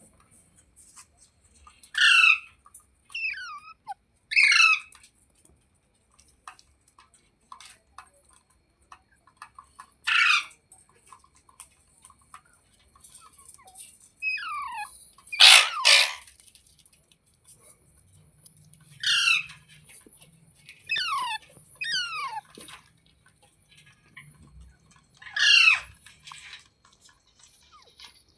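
A parrot giving short, high calls, about ten in all, a second or several seconds apart, many falling in pitch; the loudest comes near the middle.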